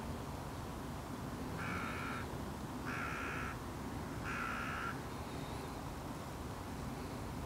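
A bird calls three times in a row, each call about half a second long and about a second and a half apart. Steady low background noise runs underneath.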